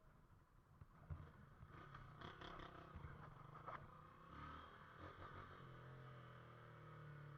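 Faint motorcycle engines running in the distance, with a couple of light clicks.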